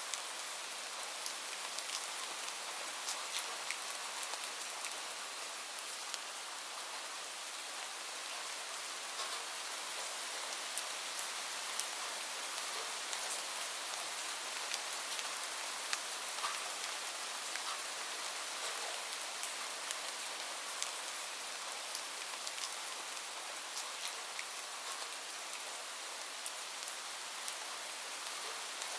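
Steady rain falling, a constant hiss with many small drop pattering sounds scattered through it.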